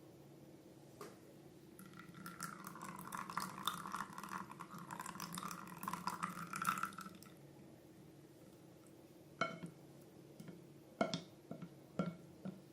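Wet, crackling squish of slime being worked for about five seconds, followed by a few separate sharp clicks.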